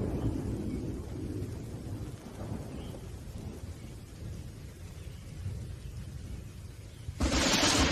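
Thunderstorm: a low rumble of thunder dies away, then a sudden loud thunderclap cracks about seven seconds in.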